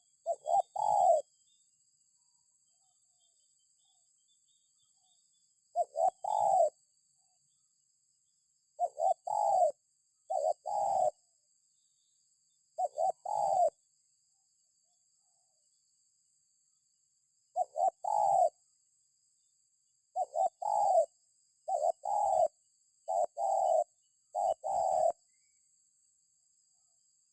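Spotted dove cooing: about ten short phrases, each of two quick notes and a longer third, repeated at uneven gaps of one to five seconds.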